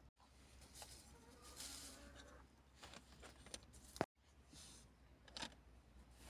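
Near silence with a few faint rustles and a sharp click about four seconds in; the sound drops out completely twice for a moment.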